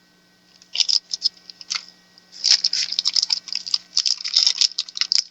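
Quick, irregular crinkling and clicking of packaging being handled as the hot-air nozzle tips are taken out, sparse at first and dense after about two seconds. A faint mains hum runs underneath.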